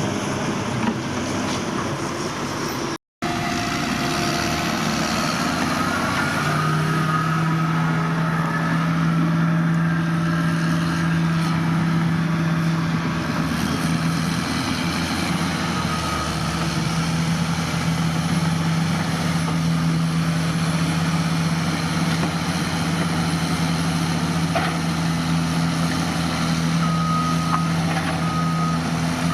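Diesel engine of heavy earthmoving machinery running steadily under work, with a short break in the sound about three seconds in. A few short high beeps come near the end.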